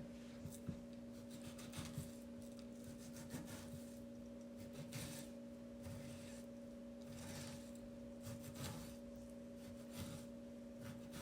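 Faint rubbing and scraping of hands and utensils working at a kitchen counter, with a few light knocks, over a steady electrical hum.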